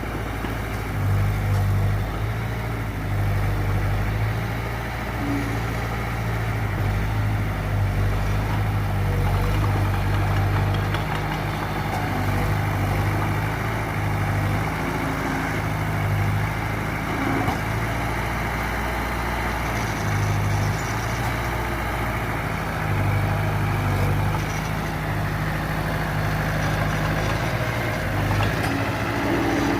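Diesel engine of earthmoving machinery running steadily at low revs, its drone swelling and easing every few seconds.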